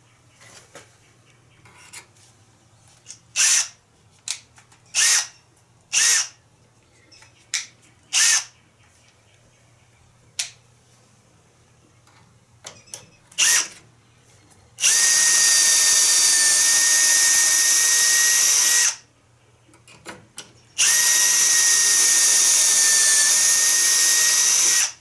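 Drill boring pocket holes: several short sounds, then two long steady runs of about four seconds each with a steady high whine.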